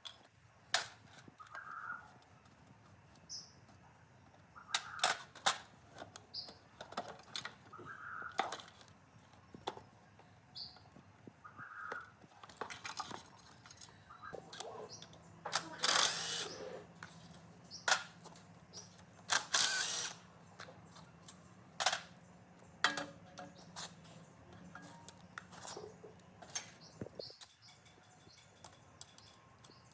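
Scattered clicks, clinks and knocks of hand tools and small metal parts being handled, with two longer scraping bursts near the middle. Birds chirp now and then, and a faint low hum comes in about halfway through and stops near the end.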